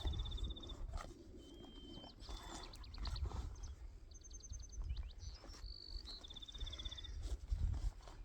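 A songbird singing: a clear whistled note running into a fast trill, heard at the start and again near the end, with other short chirps and rapid note series in between. A low rumble sits underneath throughout.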